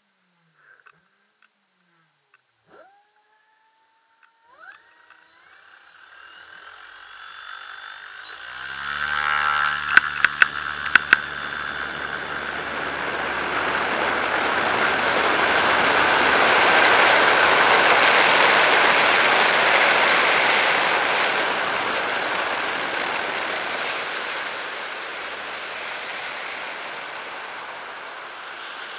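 Electric drive of a tandem trike (Rotex REX30 20 kW motor with its controller) whining and rising steeply in pitch as it spins up, then a growing rush of wind and tyre noise as the trike picks up speed. The rush peaks about halfway through and slowly fades. A few sharp clicks come about ten seconds in.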